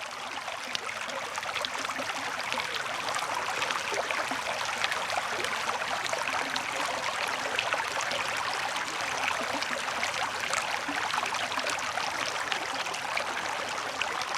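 Running water, rushing steadily with a fine crackle.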